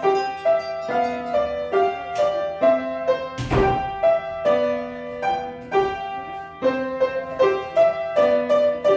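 A child playing a simple tune on the piano, picking out a melody over a few low accompanying notes in an even rhythm. There is a brief knock about three and a half seconds in.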